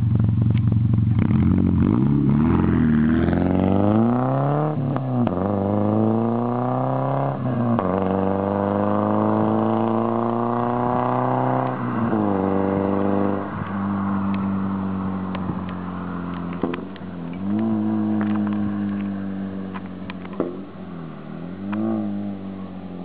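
Škoda Felicia 1.6 petrol engine's exhaust note, revving up three times in long rising sweeps, each ending in a sharp drop in pitch. It then settles to a lower, steady note with two short blips of the throttle near the end.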